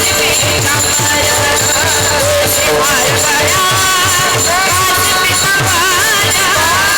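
Devotional kirtan singing: a woman's voice sings a wavering, ornamented melody over a steady held drone note, a regular drum beat and jingling percussion.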